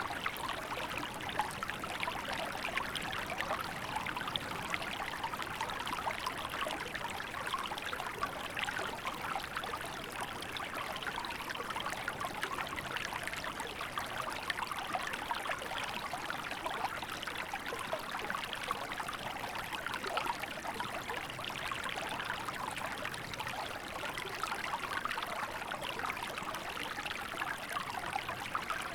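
Small river in winter flowing steadily, an even babble and trickle of water over its bed.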